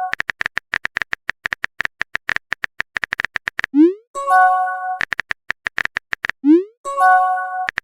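Rapid phone-keyboard typing clicks, about eight a second, broken twice by a rising swoosh and a short chime: the message-sent sound effect of a texting-app animation.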